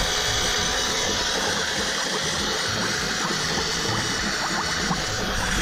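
Electric oil extractor pump running steadily, sucking through a hose down the engine's dipstick tube, with a rapid patter of small pops. It is pulling mostly air with the last of the oil, the sign that the sump is nearly empty.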